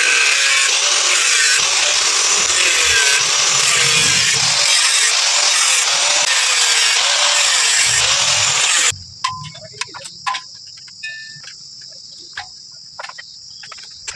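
Power cutting tool, an angle grinder, cutting open a scooter's steel exhaust silencer: a loud steady hiss of the disc in the metal, its motor pitch wavering under load. It stops abruptly about nine seconds in, leaving crickets chirping and a few light taps.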